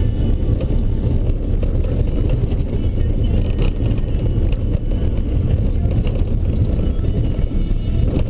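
Ford Ranger 4x4 driving off-road: a steady, low rumble of engine and tyre noise.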